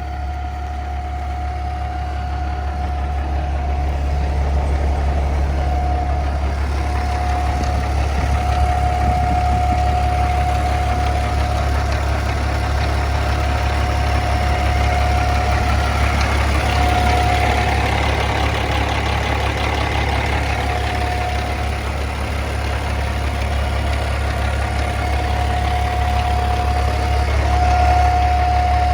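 A 2014 Kenworth T800's natural-gas (CNG) truck engine idling steadily with a deep, even hum. A thin high whine rises and fades several times over it.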